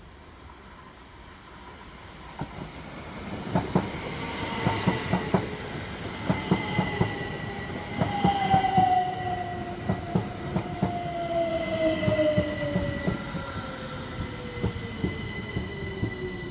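A train passing close by, its wheels clacking in quick irregular runs over rail joints. A whine falls slowly and steadily in pitch through the passage, over a steady high tone.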